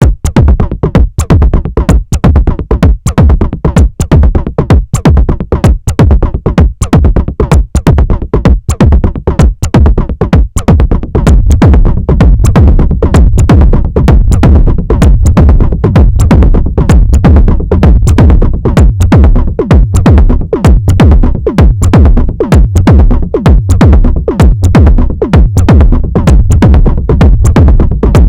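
Live analogue techno jam: a Moog DFAM drum synthesizer plays a steady, driving percussion pattern with heavy bass, alongside an Arturia MicroFreak synthesizer. About eleven seconds in, a sustained sound fills the gaps between the hits and the texture thickens.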